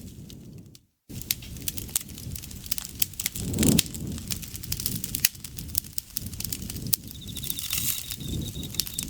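Wood campfire crackling and popping, with the low rumble of the flames under many sharp snaps. A brief dropout comes about a second in. From about seven seconds in, an insect trills steadily and high-pitched.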